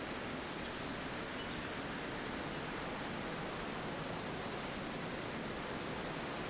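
Steady wind through forest trees: an even, unchanging rush of noise with no distinct bird calls standing out.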